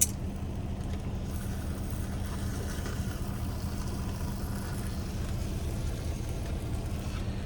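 Steady low hum of the semi-truck's idling engine, with one sharp click at the start.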